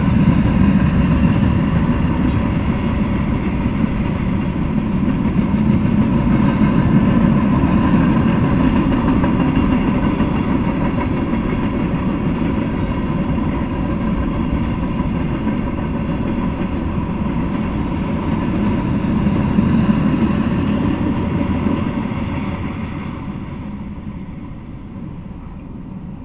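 Freight cars rolling past on the rails: a loud, steady rumble of steel wheels on track with a few steady higher tones above it. It fades away over the last few seconds as the end of the train passes.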